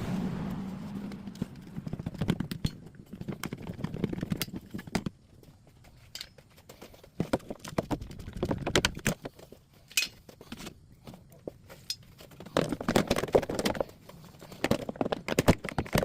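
Irregular clicks, knocks and plastic rattles of hand work on a car's cowl area, as the wiper arms and the plastic cowl tray are worked loose and lifted out. The clatter comes in clusters, busiest about two, nine and thirteen seconds in.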